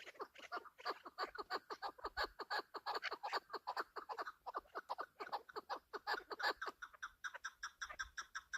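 Chukar partridge calling in a fast, even run of short falling notes, about eight a second; from about seven seconds in the notes turn shorter and higher.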